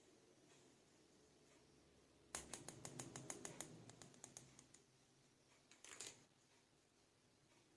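Small plastic toy pieces being handled: a quick run of about a dozen light clicks and taps, then a short cluster of clicks a second later, against quiet room tone.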